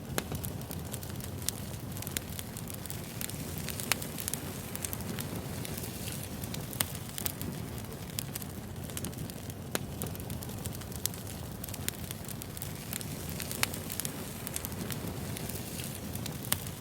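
Wood fire burning steadily, with a low rumble under scattered sharp crackles and pops of burning firewood.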